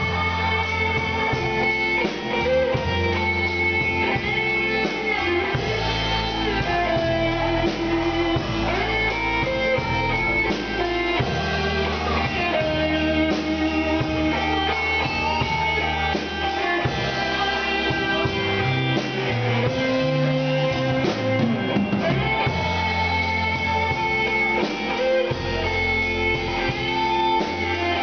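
Instrumental break of a band song: a guitar plays the melody over bass and a full band backing, with no singing.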